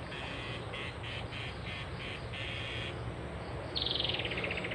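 A bird calling: a run of short buzzy notes about two to three a second over the first three seconds, then a rapid trill that falls in pitch near the end.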